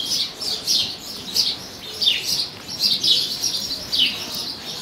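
Small birds chirping continuously in the arena's rafters: short, high chirps, each falling in pitch, coming a few times a second.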